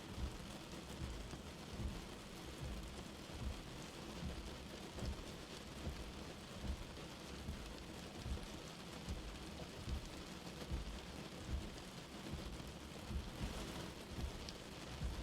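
Light rain falling steadily: an even patter of drops with frequent soft low taps scattered irregularly through it, the patter briefly a little brighter near the end.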